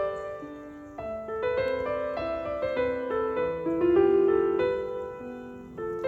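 Background music: a gentle piano melody of single sustained notes with soft accompaniment.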